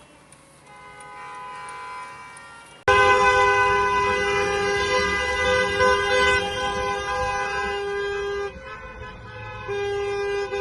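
Car horns honking in protest, fainter horns at first, then a loud two-tone car horn starts suddenly about three seconds in and is held long, breaking off briefly near the end before sounding again.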